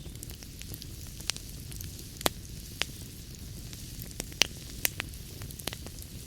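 Wood fire crackling in a fireplace: irregular sharp pops and snaps over a steady low rumble and hiss of burning.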